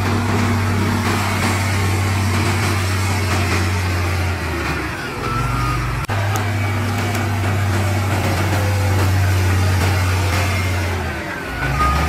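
Heavy earthmoving machinery's diesel engine running under load, a steady low drone that shifts and dips briefly about five seconds in and again near the end.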